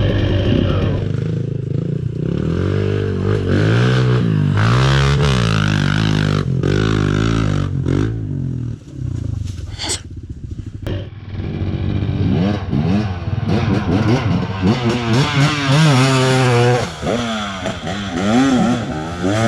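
KTM 300 XC two-stroke dirt bike engine being ridden, revving up and falling back again and again, with the throttle eased off for a moment about halfway through.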